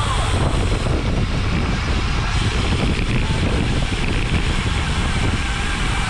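Steady wind rumble on the microphone of a bicycle race camera riding at race speed.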